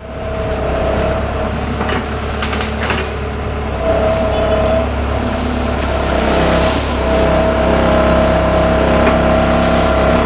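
Hitachi excavator's diesel engine running steadily, with a hydraulic whine that rises and falls as the machine works.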